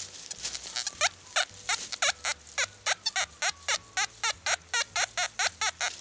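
A bird calling in a fast, even run of short repeated chirps, about four a second, starting about a second in.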